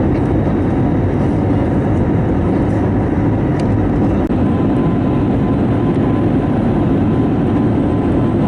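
Steady cabin noise of an Airbus A321neo in its climb: the engines and rushing airflow, mostly low and even, with a faint steady tone above it.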